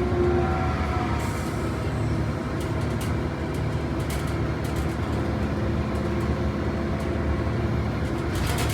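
Bus engine running steadily while the bus is under way, heard from inside, with a steady low drone and a few rattling clicks, more of them near the end.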